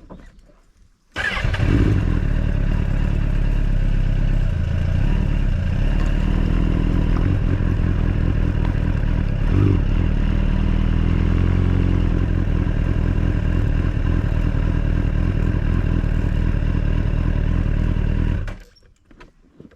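Honda Fireblade motorcycle's inline-four engine running steadily. It comes in abruptly about a second in and cuts off abruptly near the end.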